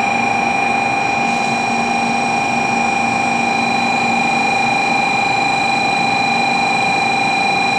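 Steady high-pitched electrical whine from an electric train standing at the platform, one unchanging tone with fainter overtones above it.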